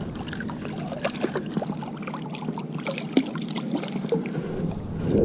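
Water lapping and trickling against a kayak hull, with scattered small clicks and light knocks; one sharper tick about three seconds in.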